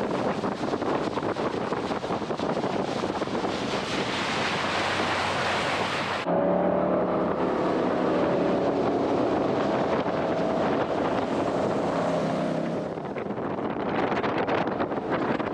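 Jet boat running at speed, with rushing wind and water. About six seconds in, the rush suddenly drops back and the engine's steady note comes through for about seven seconds, then the rushing returns.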